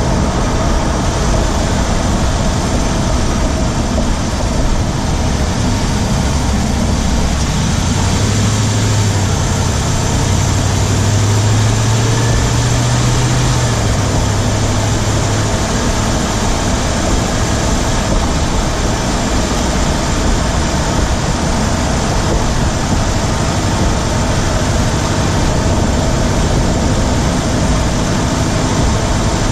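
2017 Ram 1500's Hemi V8 running under way, heard from inside the engine bay, with a ticking from the driver's side that the owner suspects may be the typical Hemi tick or something else. A low hum rises and falls in pitch for a few seconds around the middle.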